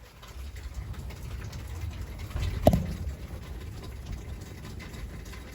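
Rain falling steadily, with one brief louder sound about two and a half seconds in.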